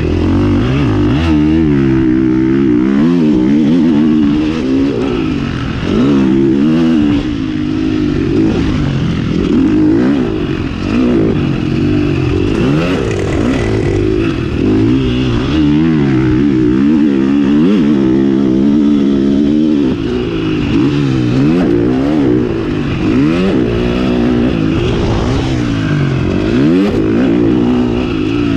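KTM 350 SX-F four-stroke single-cylinder motocross engine being ridden hard. It revs up and down over and over as the throttle is opened and shut and the gears change, its pitch rising and falling every second or two.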